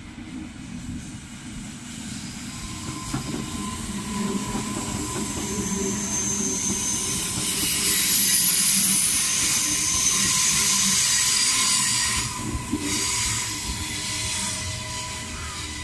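Queensland Rail electric multiple-unit passenger train running into the station and slowing alongside the platform: a rising rumble of wheels on rail with a steady whine and high-pitched wheel squeal, loudest as the cars pass close by, easing off about twelve seconds in.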